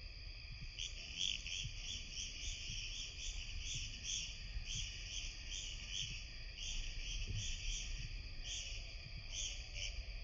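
Insects calling steadily in a high, even chorus, with a run of short repeated chirps, about three a second, from about a second in until near the end. A low rumble runs underneath.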